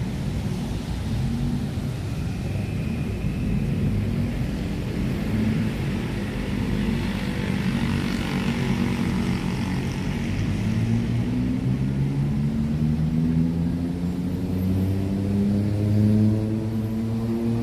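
Road traffic rumble with a swell of hiss midway, then an engine whose pitch rises steadily through the last third as a vehicle speeds up.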